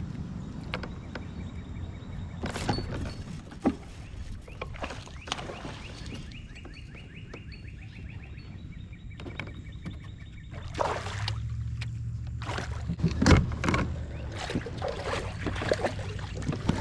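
Sounds of fishing from a kayak: a fishing reel being cranked, with runs of fast even ticking, and scattered knocks and handling noises against the kayak.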